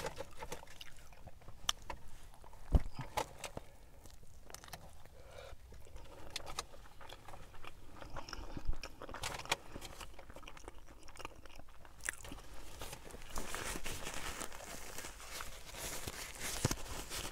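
A person biting into and chewing a soft burrito in a flour tortilla, mouth-close eating sounds with scattered sharp clicks and smacks, a few louder ones standing out.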